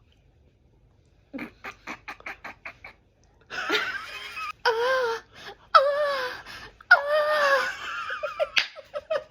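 A person laughing: first a quick run of short breathy bursts, then several long, high-pitched wavering squeals of laughter.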